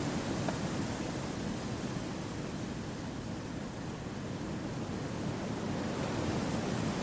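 Wind blowing through forest trees: a steady rushing that eases a little in the middle and swells again near the end.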